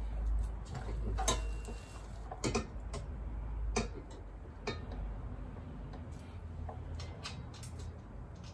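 Irregular metallic clicks and light knocks, some with a brief ring, as a motorcycle exhaust silencer and its mounting bolts are handled and offered up to the frame bracket to line up the holes.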